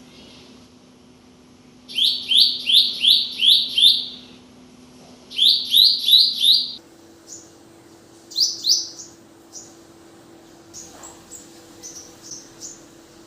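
A bird calling in bursts of rapid, rising chirps, about three a second: a run of six, then four, then two or three louder ones. Fainter, higher, shorter chips follow near the end over a faint steady hum.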